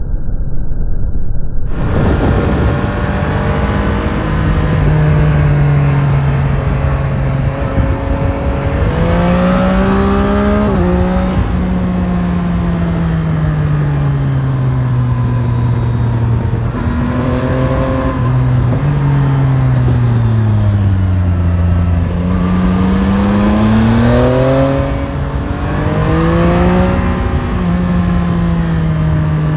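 Yamaha Tracer 9 GT's CP3 inline-three engine under way, its note rising and falling with the throttle, with sharp drops in pitch at gear changes, over steady wind rush. The revs sink lowest a little past twenty seconds, then build again.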